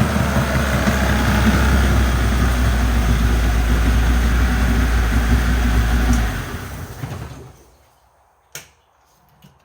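40 hp Mariner two-stroke outboard motor running steadily, then shut off about six seconds in and winding down to a stop over a second or so. A single sharp click follows in the quiet.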